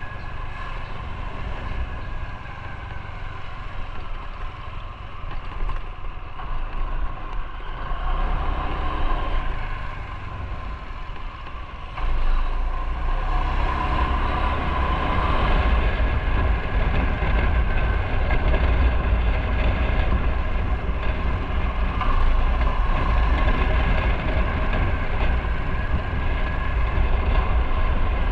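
Motorcycle engine running while riding, with wind rumbling on the microphone; the sound steps up louder about twelve seconds in.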